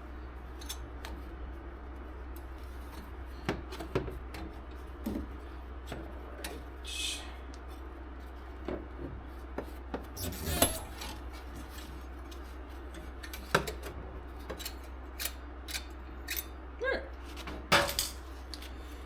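Metal hand tools and parts clinking and knocking now and then while being handled, with a few louder knocks, over a low steady hum.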